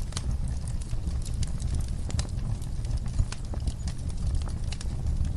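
Wood fire in a fireplace crackling: frequent, irregular pops and snaps over a steady low rumble of the flames.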